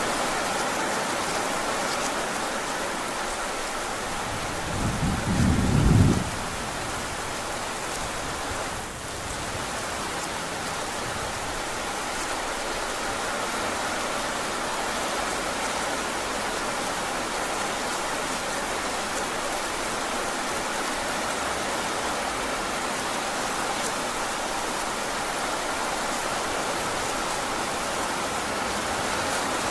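Heavy rain falling steadily, with a short low rumble of thunder about five seconds in that swells and stops abruptly.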